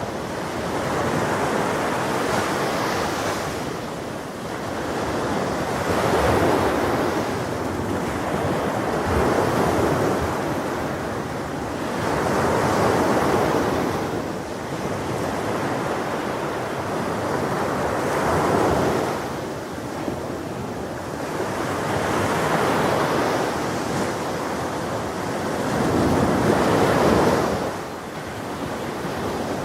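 Ocean waves breaking on a shore, the surf swelling and fading in surges every few seconds, with the loudest wave near the end.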